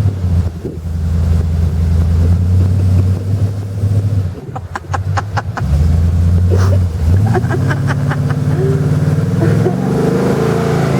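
4x4 truck engine running under load, dropping off about four seconds in with a quick run of sharp clicks, then revving up again and rising in pitch.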